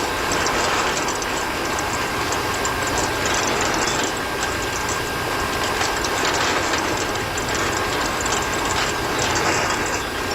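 A small motor and gearbox on a toy-scale DIY vehicle running steadily, whirring with a rapid, continuous clicking of gears.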